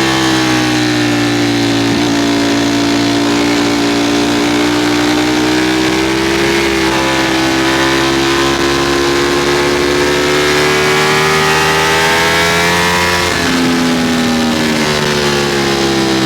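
Ducati Streetfighter V4's V4 engine under way, its pitch climbing slowly as the bike gathers speed, then dropping sharply about thirteen seconds in as it shifts or the throttle is eased, with steady wind rush over it.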